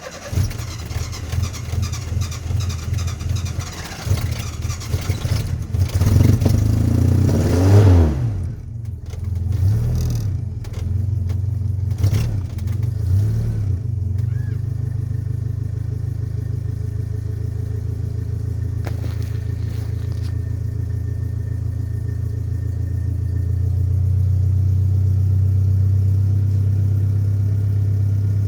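Nissan 720 pickup's four-cylinder engine starting up and running unevenly, revved up and down several times, then settling about halfway through into a steady idle. It is an engine that is known to start hard.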